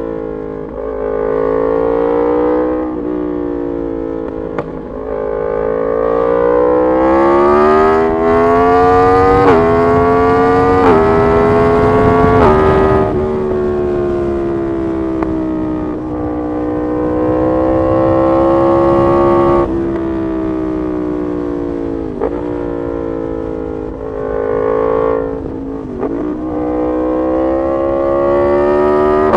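Yamaha MT-10 SP's crossplane inline-four through an SC Project exhaust, accelerating hard with the pitch climbing and dropping briefly at three quick upshifts around the middle, then rolling off to a steady cruise with a few small dips in revs.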